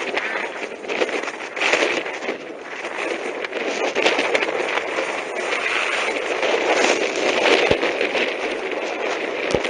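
Skis scraping and sliding over snow in a continuous, uneven rush, with wind buffeting the microphone.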